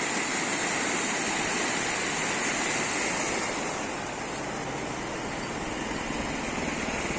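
Rushing water of a rain-swollen river, a steady noise that eases slightly about halfway through.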